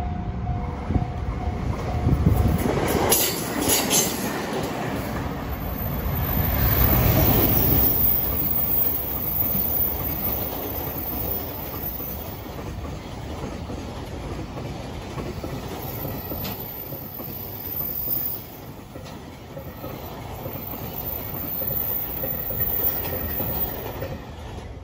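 A JR Freight container train running past close by, its wagon wheels clattering over the rail joints with some wheel squeal, while a local train passes it on the other track. It is loudest in the first eight seconds and eases off as the last container wagons go by near the end. A level crossing bell is ringing at the start.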